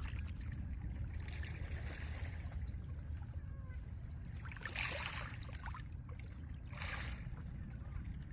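Small lake waves washing onto a pebble shore, with three hissing washes, about a second in, around five seconds in and a short one near seven seconds, over a steady low rumble.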